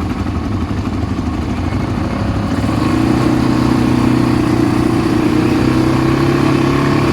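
ATV engine running under way. About two and a half seconds in it gets louder and its pitch steps up, then holds steady.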